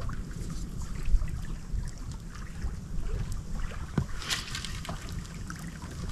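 Wind buffeting the microphone as a steady low rumble, with scattered small knocks and a brief hiss about four seconds in.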